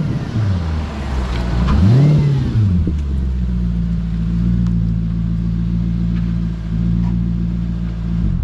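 2005 Audi B6 S4's 4.2-litre V8 through a muffler-deleted MagnaFlow exhaust: revs falling away at the start, one more throttle blip rising and dropping about two seconds in, then a steady idle.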